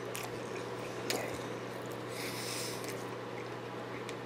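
A person chewing a mouthful of deep-fried Twinkie: soft wet mouth clicks, and a breath through the nose about two seconds in. A steady low electrical hum runs underneath.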